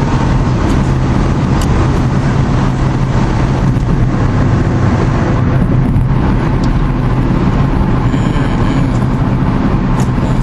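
Steady road noise heard from inside a moving car's cabin: a continuous low rumble of tyres and engine.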